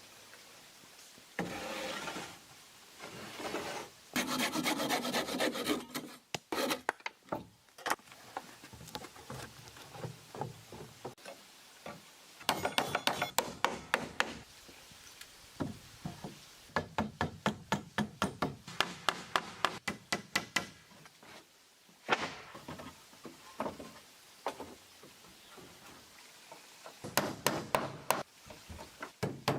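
Hand tools working wood: several bursts of quick, repeated scraping strokes with pauses between.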